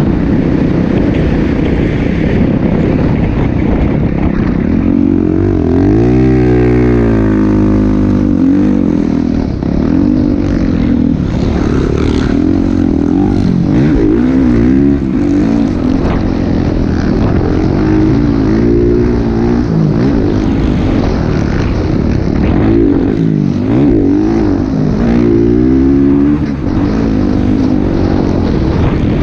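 Motocross dirt bike engines revving, their pitch climbing and falling again and again over a steady low rumble.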